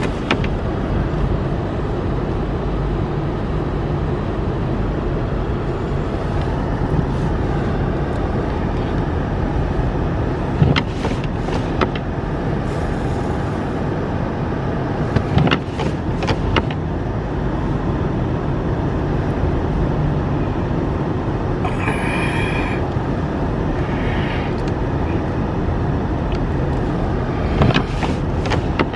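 A car driving slowly on a snow-covered road, heard from inside the cabin as steady engine and tyre noise, with a few brief clicks and knocks.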